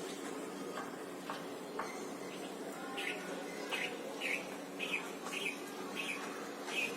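Bulbul nestlings chirping: short high chirps, sparse at first, then repeating about twice a second from about three seconds in, over a steady low hum.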